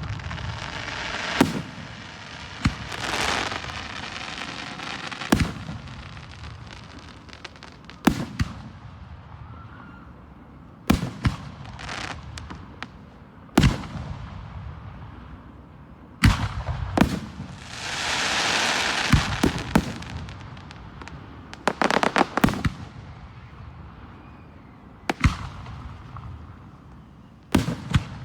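Fireworks display: a dozen or so sharp, loud shell bursts at irregular intervals of one to three seconds. Twice a burst is followed by a few seconds of hissing crackle.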